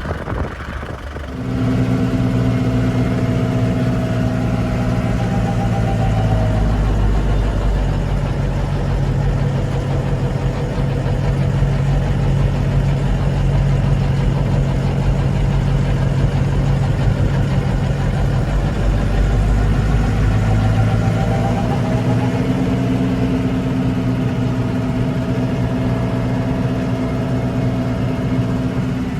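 Lovol 50-horsepower tractor's diesel engine running hard, stepping up in level about a second and a half in. Its pitch sags about seven seconds in and climbs back about twenty-one seconds in, as the engine pulls down under load working through hard-packed snow.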